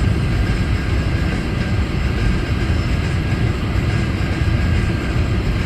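Steady low rumble of a car driving through snow, heard from inside the cabin.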